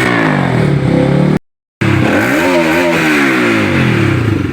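Bajaj Pulsar RS200's single-cylinder engine revving loudly through an aftermarket full-system exhaust, its pitch falling and rising with repeated throttle blips. The sound drops out abruptly for a moment about a second and a half in, then resumes.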